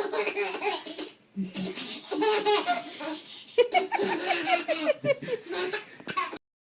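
High-pitched human laughter in several bouts with short breaks, cut off abruptly near the end.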